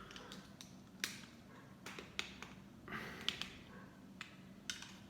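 LEGO plastic pieces clicking and snapping as they are handled and pressed together, a string of small, sharp, irregular clicks with light rustling of the parts between them.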